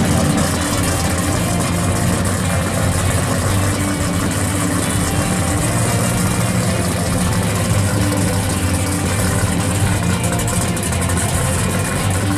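Engine of a pro street drag-built Plymouth 'Cuda idling steadily.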